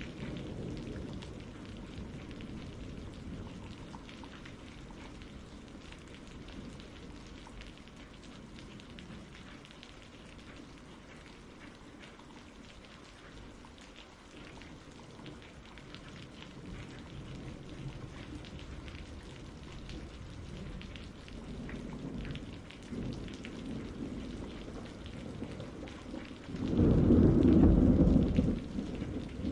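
Steady rain with rolling thunder. A thunder rumble fades in the opening seconds, a softer one comes about two-thirds of the way through, and a loud rumble of thunder breaks near the end.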